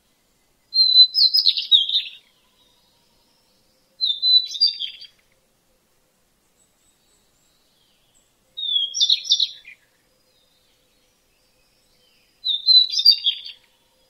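A songbird singing four short phrases of quick, varied high notes, a few seconds apart.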